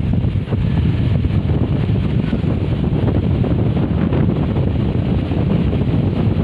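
Bus in motion: a steady low rumble of engine and road noise, with wind buffeting the microphone.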